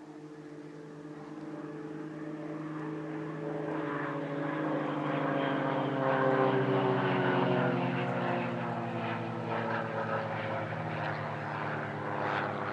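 Piston-engined propeller aerobatic aircraft, a CAP 232 and an Extra 300L flying in formation, passing overhead. The engine drone grows louder to a peak about halfway through, its pitch sagging slightly, then eases off.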